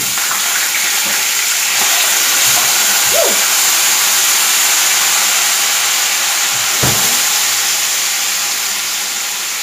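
Chicken drumsticks sizzling in hot oil with cumin seeds in a steel kadai, a loud, steady frying hiss.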